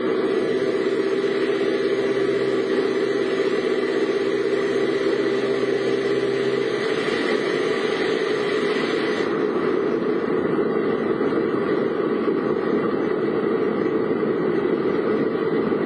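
Car engine idling, heard from inside the vehicle: a steady hum that changes character about seven seconds in.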